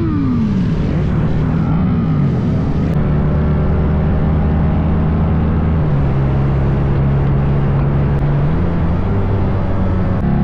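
Motorcycle engine being revved: the revs fall away in the first second, a couple of light blips follow, then it settles to a steady idle.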